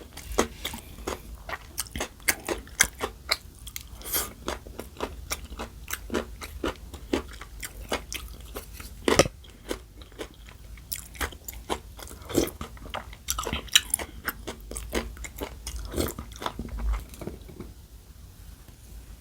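Close-miked chewing of crunchy food, many sharp irregular crunches one after another, thinning out near the end.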